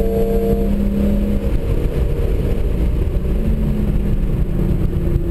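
Hyundai Genesis Coupe 3.8's V6 engine pulling hard under power, heard from inside the cabin over heavy road and wind noise, its note rising and falling a little about three seconds in.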